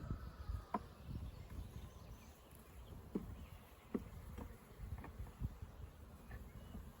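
Honeybees buzzing faintly around an open hive, over a low rumble, with a few short clicks scattered through.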